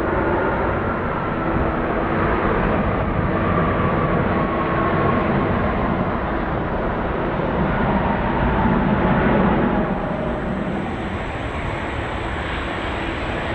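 Jet engines of a large widebody airliner running in a steady, loud roar, with a faint whine that slides slowly down in pitch.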